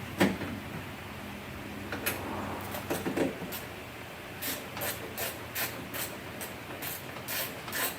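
Hand ratchet clicking as bolts are tightened down on a car door's window regulator. A knock comes just after the start, and from about halfway on the ratchet clicks in a steady rhythm, about three clicks a second.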